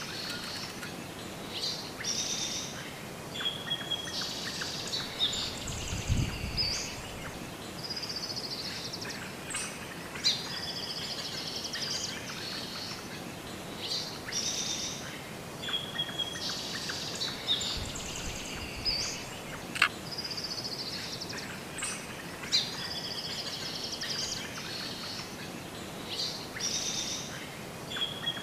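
Birdsong: short high chirping and warbling phrases, the same sequence of phrases recurring about every twelve seconds, over a faint steady hiss.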